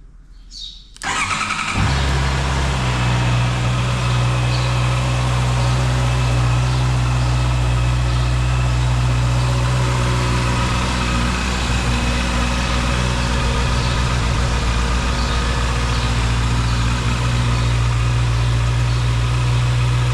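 Honda CB650R's inline-four engine cranked by the electric starter about a second in, catching almost at once and settling into a steady idle.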